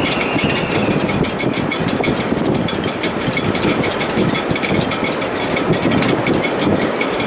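Strong wind in a sailboat's shrouds and rigging in heavy weather: a steady rushing noise with a fast, even rattle over it and a brief high whistle at the start.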